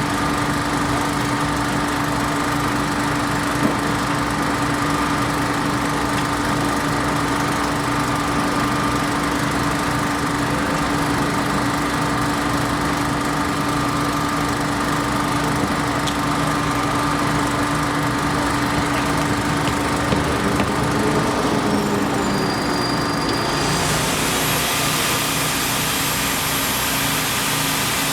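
An engine running steadily with a constant hum; about 24 seconds in, a high hiss joins it and carries on.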